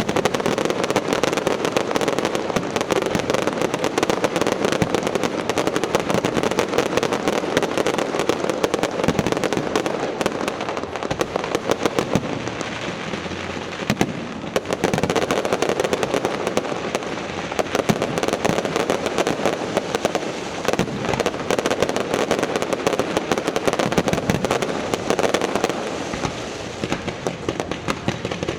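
Fireworks display: a dense, continuous barrage of bangs and crackling with no pauses.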